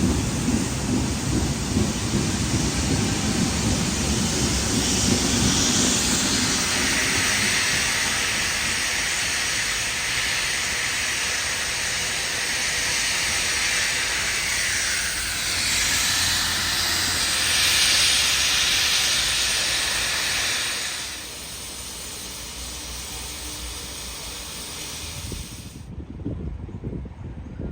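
Steam locomotive 3526, an NSW 35 class 4-6-0, hissing loudly as steam escapes, over a low rumble at the start. The hiss stops about three quarters of the way through, leaving a quieter background.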